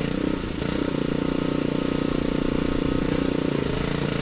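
A small single-cylinder petrol engine running steadily at constant speed, with a fast, even pulse.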